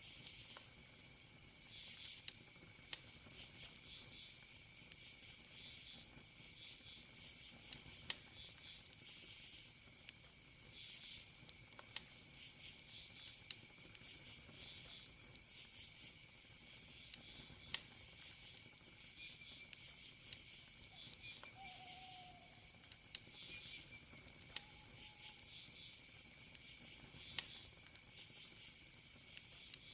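Wood fire crackling with scattered sharp pops, over a steady high cricket trill and pulsing insect chirps. A few short faint calls come in the second half.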